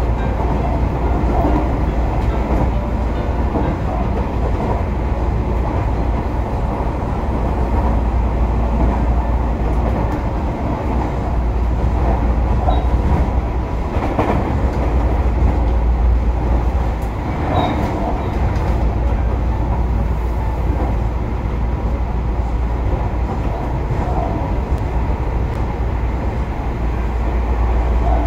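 Tobu Urban Park Line electric commuter train running, heard from inside the passenger car: a steady, deep rumble of wheels on rail, with a few sharper knocks around the middle.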